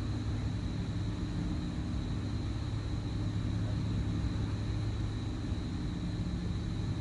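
A steady, unchanging low mechanical hum with a faint constant high whine above it.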